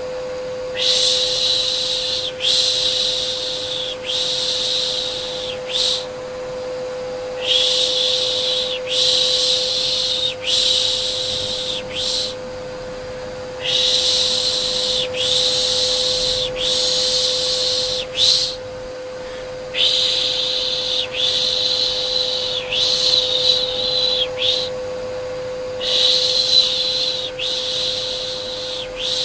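Rhythmic 'shh' shushing to soothe a baby, in repeated groups of about three long shushes and one short one with brief pauses between groups. Under it runs a steady vacuum cleaner hum used as white noise.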